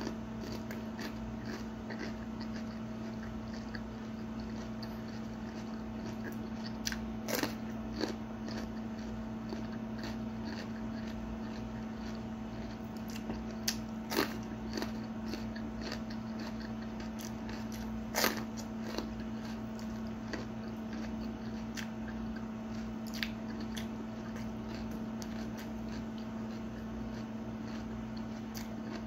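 A person biting and chewing a ripe long red chili pepper, with a handful of short, sharp crunching bites at irregular intervals. A steady low hum runs underneath.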